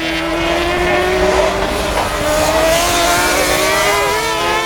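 Several racing superbike engines running at high revs, their overlapping pitches slowly rising and falling as the bikes go around the track.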